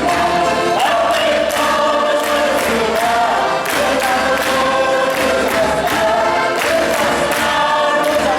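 A folk group singing a traditional carol together in chorus, with percussive strikes along with the voices.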